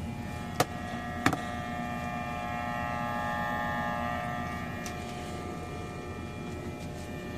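Steady machine hum with several pitched tones held through it, and two sharp clicks about a second in.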